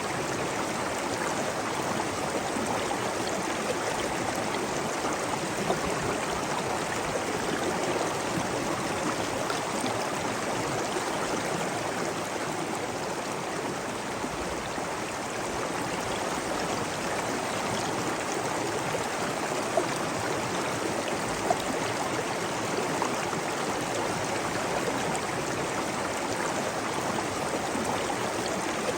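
Flowing water running and splashing steadily, with a few sharper splashes now and then.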